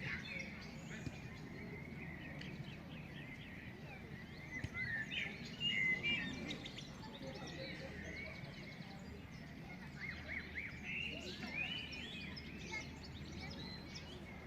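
Many small birds chirping and twittering in quick rising and falling notes, busiest about five to six seconds in, over a steady low rumble of background noise.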